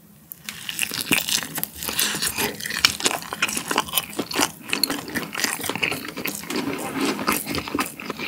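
Close-miked mouth sounds of a person biting into a soft, spicy steamed dumpling and chewing it. The bite comes about half a second in, then steady chewing with many small irregular clicks.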